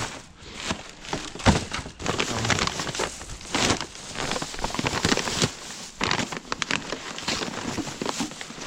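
Rubbish being rummaged through by hand: plastic bags and packaging crinkling and rustling, with irregular knocks and clatters. The sharpest knock comes about a second and a half in.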